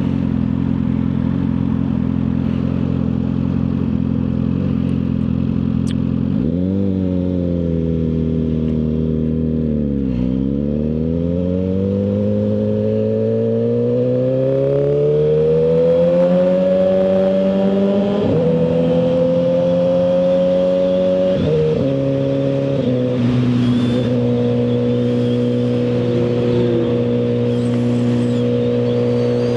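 Suzuki GSX-R1000R inline-four through a full aftermarket exhaust, holding a steady note, then revving up about six seconds in and pulling away. The pitch climbs through the gears, with drops at each upshift near ten, eighteen, twenty-one and twenty-three seconds, then it settles into a steady cruise.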